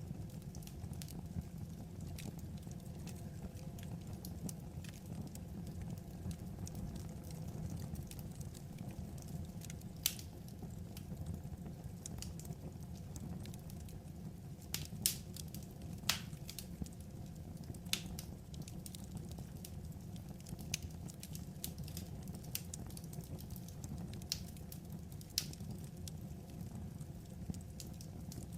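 Wood fire crackling, with scattered sharp pops over a steady low rumble; the loudest pops come in a cluster around the middle.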